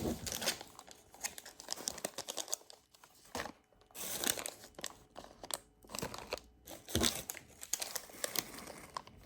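Plastic wrappers of GoGo's Crazy Bones packs crinkling and rustling as they are handled, in irregular bursts with a brief lull partway through.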